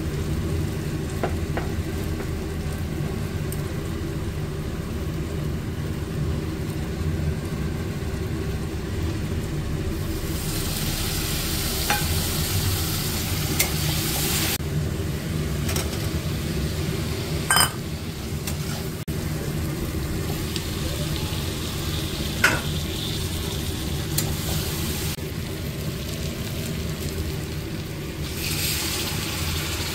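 Jackfruit and masala sizzling in a metal kadhai as a metal spatula stirs and scrapes, with a few sharp clinks of the spatula on the pan. The sizzle comes and goes in stretches, and a steady low hum runs underneath. Near the end, water poured into the hot pan hisses.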